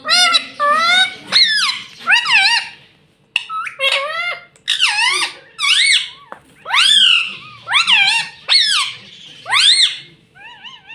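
Indian ringneck parakeet vocalising: a quick series of loud, short, high-pitched calls, each bending up and down in pitch, with brief gaps between them.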